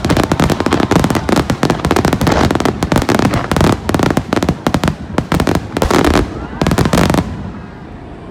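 Fireworks finale: a dense, rapid barrage of shell bursts, with crackling and booms one after another. It thins out and dies down about seven seconds in.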